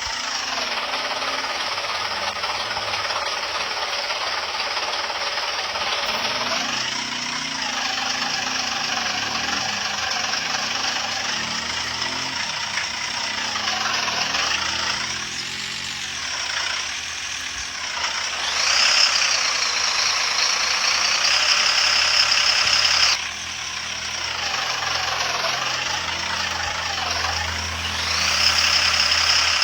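Cartoon construction-vehicle engine sounds running and revving, their pitch swooping up and down several times. A louder, hissier stretch about two-thirds of the way through stops suddenly, and starts again near the end.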